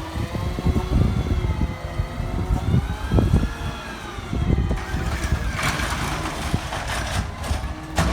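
A McNeilus ZR rear-loading garbage truck working: its engine revs up and back down, with heavy thumps and knocks, and a hiss about six seconds in.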